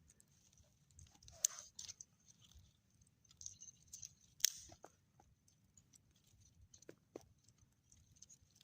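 Faint, irregular clicks and rustling, with a couple of sharp ticks about one and a half and four and a half seconds in and two short knocks near seven seconds.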